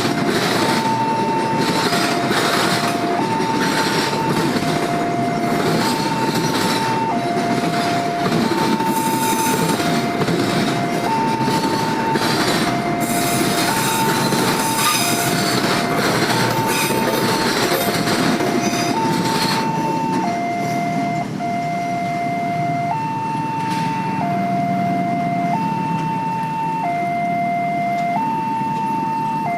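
Level-crossing warning alarm sounding its alternating two-tone signal, a higher tone then a lower one, each about a second long. Over it, the wagons of a container freight train rattle and clatter past. The wagon noise dies away about twenty seconds in, leaving the alarm.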